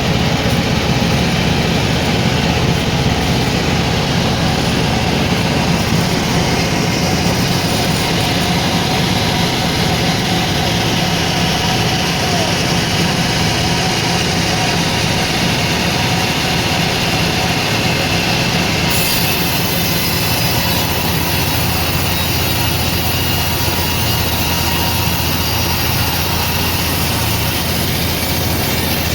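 Sawmill machinery running steadily, with a low hum under a dense mechanical noise.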